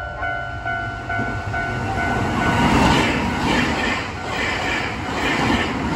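A Nankai Southern limited express train running through the station, its wheels clacking over the rail joints in a steady rhythm about twice a second. Early on a two-tone level-crossing bell is still ringing, fading out under the train noise about halfway in.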